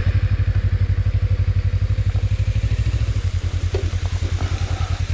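Suzuki V-Strom 250's parallel-twin engine running steadily at low revs, an even, rapid low thumping pulse.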